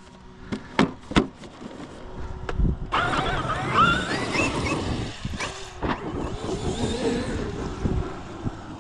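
Large-scale electric RC monster truck driving on a dirt track. Three sharp knocks in the first second or so, then from about three seconds in the brushless motor's whine rises and falls with the throttle over the tires churning the dirt.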